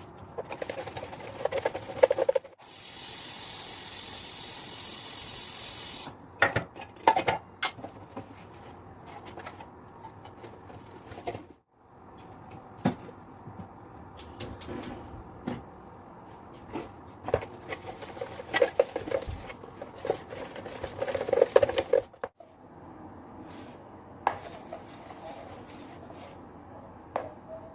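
Household handling sounds: dishes and utensils knocking, clinking and rubbing at irregular moments. A loud, steady hiss runs for about three and a half seconds near the start and then stops abruptly.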